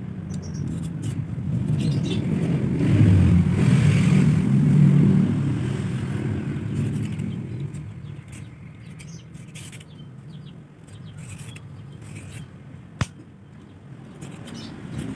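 A motor vehicle passing by: a low rumble that swells over the first few seconds and fades away by about halfway through. Near the end there is a single sharp click.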